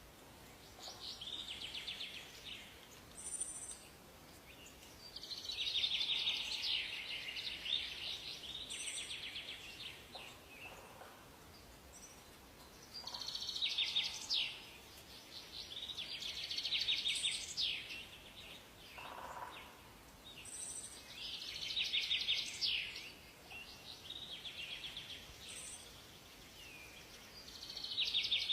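Songbirds singing in a forest: phrases of fast trills and quick chirping sweeps, one every few seconds, over a faint steady hiss.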